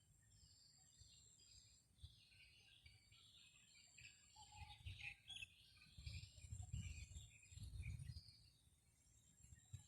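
Faint chirping and twittering of small birds, with low gusts of wind buffeting the microphone that swell about halfway through.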